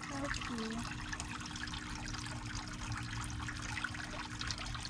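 Water trickling steadily, with a faint low steady hum underneath.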